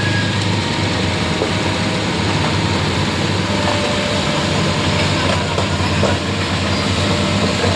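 Excavator's heavy diesel engine running steadily under load, with a few faint knocks of stone and metal.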